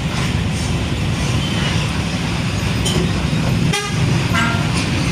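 Busy road traffic: heavy trucks' engines running with a steady low rumble, and a brief horn toot a little under four seconds in.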